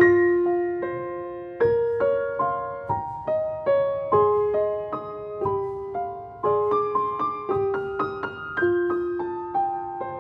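Background music: a gentle solo piano melody, single notes struck one after another and left to ring and die away.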